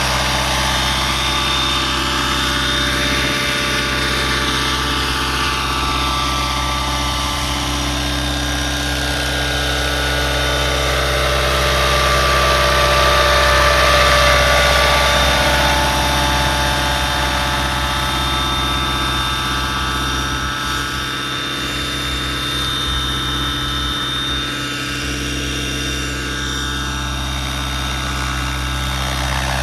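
Electric 600-size RC scale helicopter on Align T-Rex 550e mechanics in flight: a steady rotor and motor whine, its pitch sliding and its level swelling as the heli moves about, loudest around the middle.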